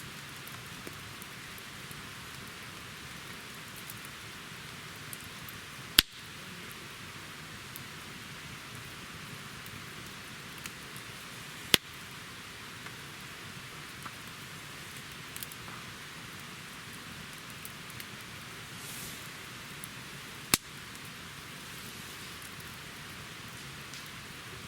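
Wood campfire burning: a steady hiss with small scattered crackles and three sharp, loud pops spread through.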